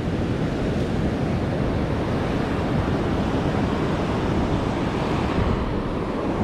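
Ocean surf breaking and washing on a beach as a steady rush of noise, with wind buffeting the microphone.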